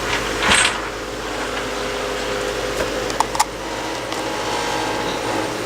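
Steady mechanical hum, with a short scraping rush about half a second in and two sharp clicks a little after three seconds.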